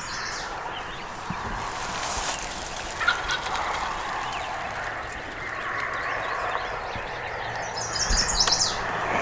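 Wild turkey gobbler gobbling, a rapid rattling call, loudest about eight seconds in.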